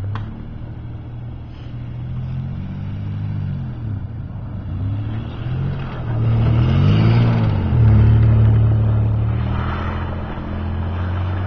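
A truck's engine revving up and down several times, loudest about two-thirds of the way through where it holds high revs for a couple of seconds before easing off.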